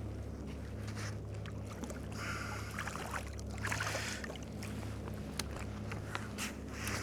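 Kayak afloat on the sea: water splashing and washing against the hull, loudest about two to four seconds in, over a steady low hum, with scattered small clicks and knocks.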